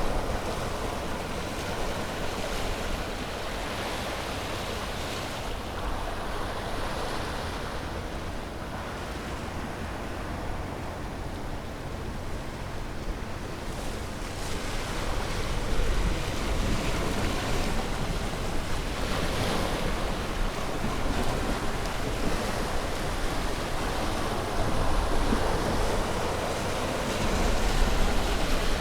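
Ocean waves breaking on a shore, a steady wash of surf that eases off about a third of the way in and swells again with several louder breakers later, with low wind rumble on the microphone.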